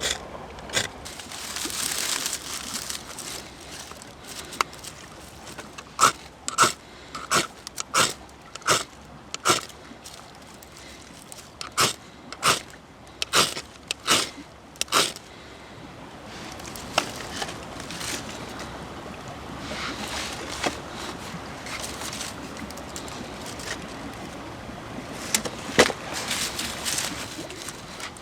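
Fire being lit in a clay-and-stone fireplace: a run of about fifteen sharp strikes, a little over half a second apart, then a steadier rushing noise with a few sharp snaps.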